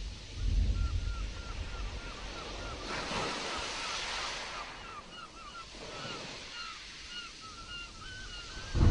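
Sea surf washing in stormy wind, with a wave surging up about three seconds in. A bird gives a long run of short, quick chirping calls, about three a second, through most of it, and a low rumble of thunder breaks in right at the end.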